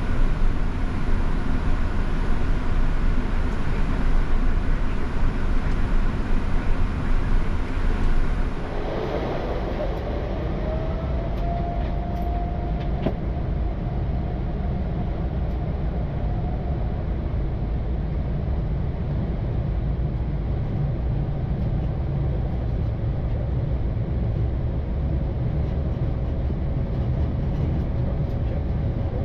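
Boeing 787-9 engine and airflow noise on the flight deck, a loud steady rumble. About nine seconds in it changes abruptly to a quieter low rumble, with a whine that rises in pitch for a couple of seconds and then holds steady.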